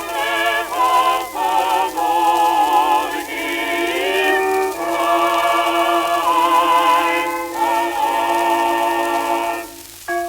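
Early 1900s shellac phonograph recording of a singer in operatic style, with a wide vibrato on long held notes; the sound is thin, with almost no bass. The singing breaks off just before the end.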